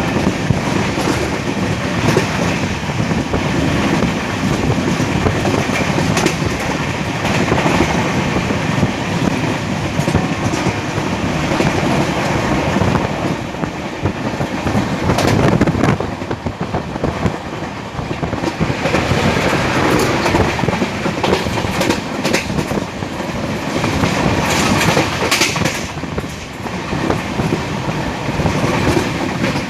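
Passenger train running along the track, heard from aboard a coach: wheels clattering over the rails under a steady, loud rush of running noise.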